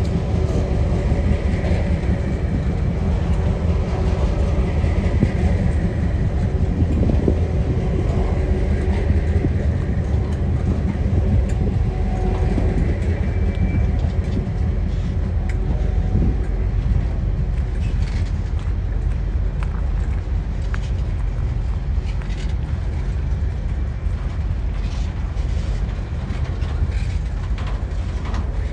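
Container wagons of a TasRail freight train rolling past, a steady low rumble of wheels on rail. There are brief faint high squeals in the first half and scattered clicks and knocks in the second half.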